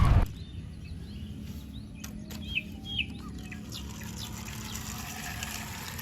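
A loud sound cuts off abruptly at the very start, leaving birds chirping: short sweeping chirps, two clearer ones about halfway through, over a steady low hum.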